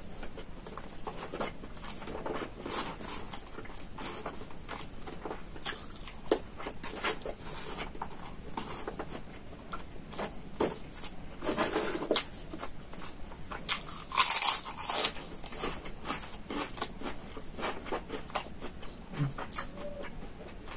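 Close-miked eating: chewing, lip-smacking and small clicks as rice, chicken and noodles are eaten by hand from a styrofoam box. There are louder crackling bursts about 11 and 14 seconds in.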